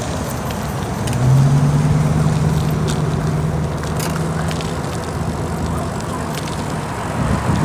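A motor vehicle's engine running close by on the road, a steady low hum that comes in about a second in and holds, over a low rumble of wind and road noise.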